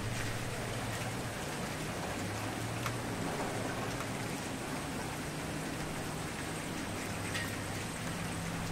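Campfire burning: a steady hiss of flames over a low rumble, with a few sharp crackling pops, one about three seconds in and one near the end.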